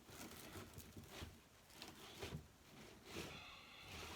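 Faint, intermittent rustling of deco mesh ribbon being handled and fluffed on a wreath frame.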